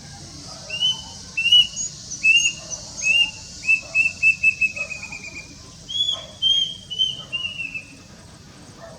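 Plaintive cuckoo (Cacomantis merulinus) singing its shrill, plaintive whistled song. There are four separate slurred notes, then a quicker run of notes falling in pitch. About six seconds in, a second phrase of whistles also falls away in a fast run.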